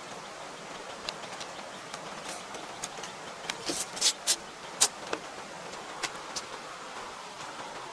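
Scattered sharp clicks and knocks, with a cluster of louder ones about four to five seconds in, over a steady background hiss.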